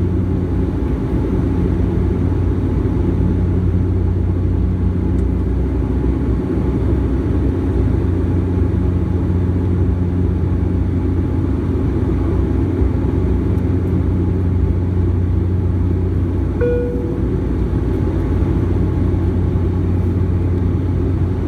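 Steady low drone of an airliner's engines heard inside the cabin during the climb. A single short chime sounds about three-quarters of the way through.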